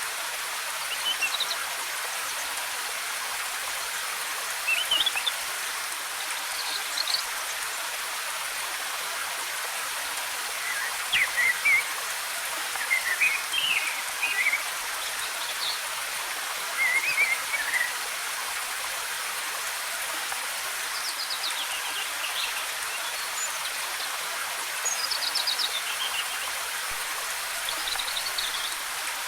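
Steady rush of falling water from a waterfall, with birds chirping over it in short phrases of song every few seconds, busiest around the middle.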